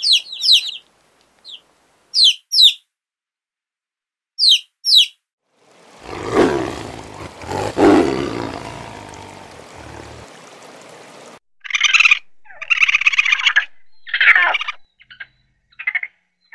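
Baby chicks peeping in pairs of high, falling chirps. About six seconds in, a tiger gives one long roar that swells twice and then fades. Near the end comes a run of short, harsh chittering calls from raccoons.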